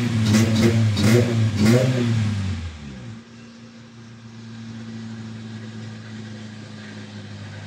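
1994 Toyota Corolla engine, just started on a newly replaced fuel pump, revved in a few quick blips. It then drops to a steady idle about three seconds in.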